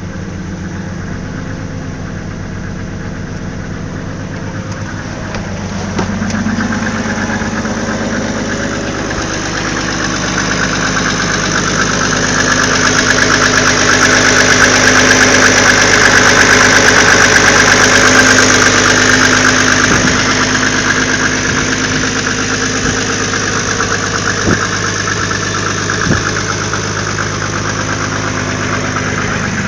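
Mercedes-Benz OM606 straight-six turbodiesel, fitted with a mechanical injection pump, idling just after starting. It gets louder from about six seconds in, is loudest midway through, then eases back.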